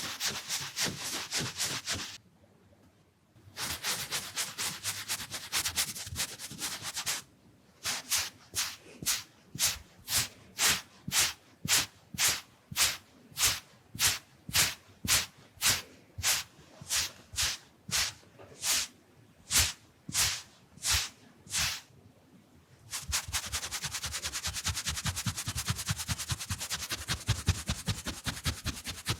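Round makeup brush swept across the microphone, a dry bristly brushing. First in quick dense strokes with two short pauses, then in separate strokes about two a second, and after a pause near the end in fast continuous brushing.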